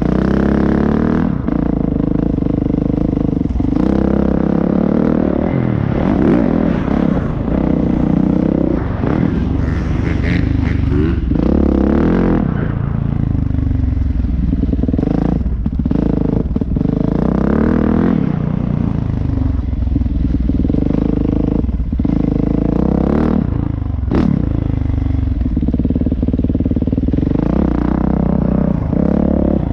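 Motorcycle engine heard up close, revving up and falling back again and again as the throttle is opened and closed, with rattling and clattering over the bumps.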